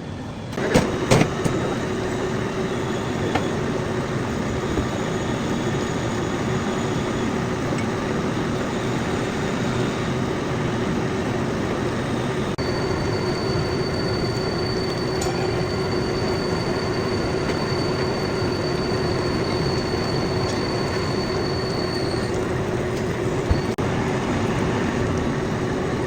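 Metal lathe running while machining a steel pulley: a steady mechanical noise with a constant hum, a few sharp knocks about a second in, and a thin high whine from about halfway that stops near the end.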